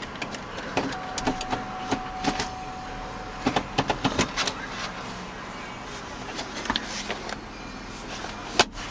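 Scattered clicks and knocks of a car's doors and controls being handled, over a steady low hum. A steady single tone starts about a second in and lasts about two seconds, and one sharp knock near the end is the loudest sound.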